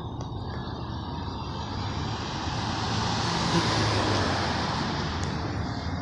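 Fire truck driving past, its engine rumbling under tyre and road noise that swells to its loudest about four seconds in and then fades.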